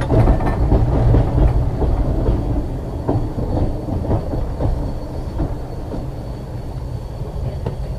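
Liverpool Corporation tram 869 rolling along the track: a steady low rumble of wheels and running gear with scattered clicks over the rail joints, and a faint steady high whine. It grows a little quieter as it goes.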